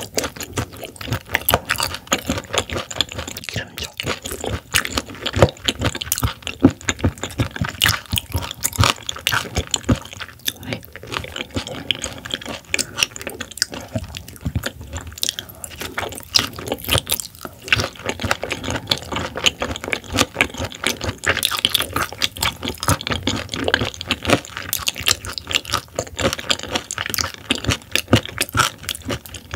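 Close-miked chewing of raw silver pomfret (butterfish) sashimi: a steady run of wet mouth clicks, smacks and squishes.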